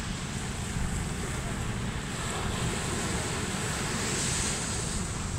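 Ocean surf washing steadily, with wind buffeting the microphone in a low rumble; the hiss of the wash swells a little about four seconds in.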